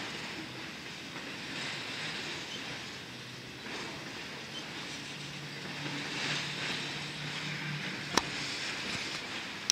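Freight train of autorack cars rolling past: a steady rumble and rail noise that swells and eases every couple of seconds, with a sharp click about eight seconds in.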